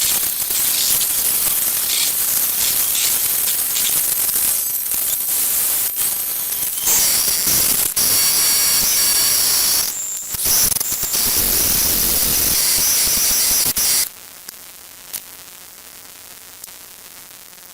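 Electromagnetic emissions from an iPad 2's processor during boot, picked up and played as audio: a loud static hiss with thin high whines that changes texture abruptly about seven and ten seconds in. About fourteen seconds in it drops sharply to a much quieter hiss with a few clicks.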